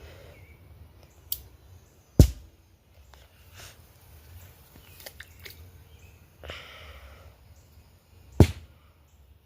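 Two sharp firecracker bangs about six seconds apart, the first shortly after a smaller pop.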